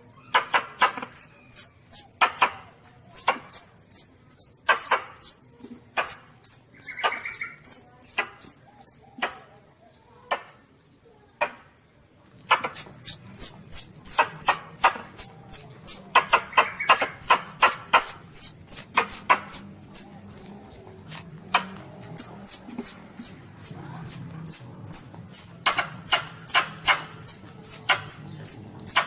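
Baby Asian palm civet calls: a rapid string of short, high-pitched squeaks repeating about two a second, broken by a pause of a few seconds midway. This is a lure recording used to call in palm civets.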